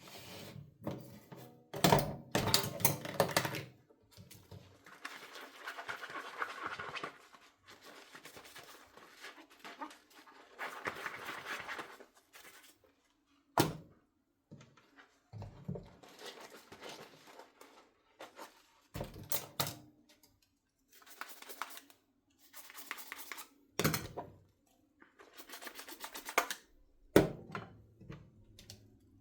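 Dishes being hand-washed at a kitchen sink: short stretches of scrubbing and water noise, broken by several sharp clinks and knocks of dishes.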